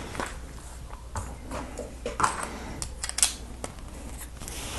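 Plastic Lego pieces clicking and rattling as they are handled and pressed together, in a series of irregular small clicks and rustles.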